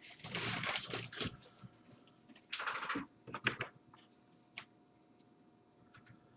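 Two short bursts of rustling noise, then a few sharp clicks and scattered faint ticks.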